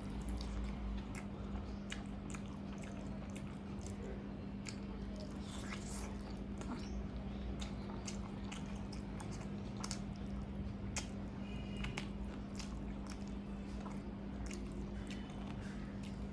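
Close-miked chewing and biting on a chicken leg piece: scattered wet clicks and mouth smacks over a steady low hum.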